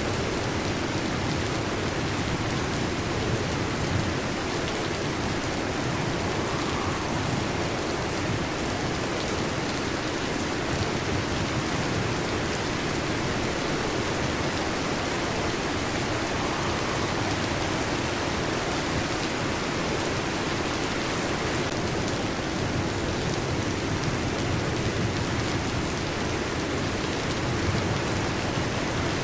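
Heavy rain falling steadily on a metal roof, an even, unbroken wash of sound.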